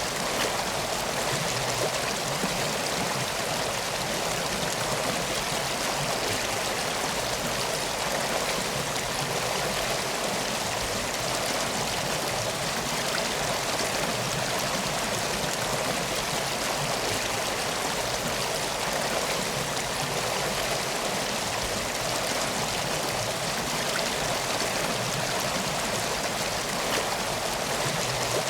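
Steady flowing river water, an even rushing that doesn't let up.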